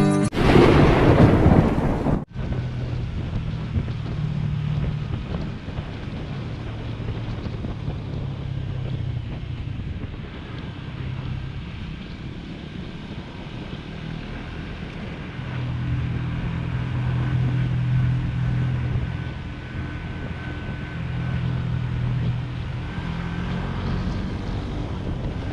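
Motorcycle engine running under way, its pitch swelling and easing, with wind buffeting the camera microphone. A loud rush of wind noise fills the first two seconds and cuts off abruptly.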